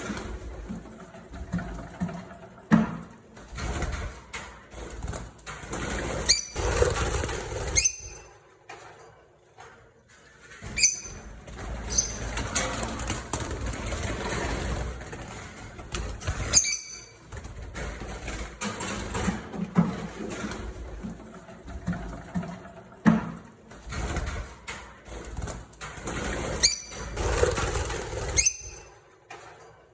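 Flock of lovebirds chirping and chattering, with sharp, shrill calls coming at irregular moments over a noisy chatter that swells and drops.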